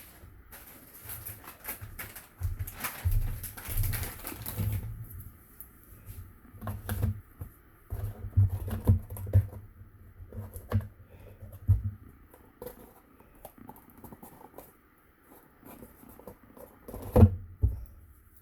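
Cardstock and a cardboard cracker box being handled, pressed and folded: paper rustling and scraping over the first few seconds, then scattered light taps and thuds on the table, with one sharper knock near the end.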